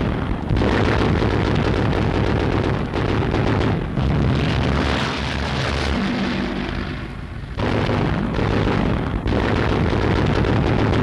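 Old newsreel soundtrack of explosions and gunfire over a continuous low rumble, from an air attack on vehicles, with brief lulls about four and seven and a half seconds in.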